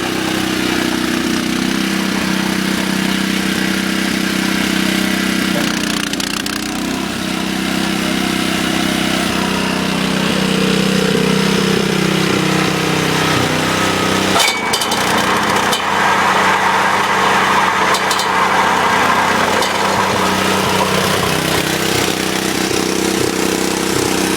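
Honda snowblower's 5.5 hp single-cylinder engine running steadily. Its pitch sags and recovers about halfway through, with a couple of sharp clicks soon after.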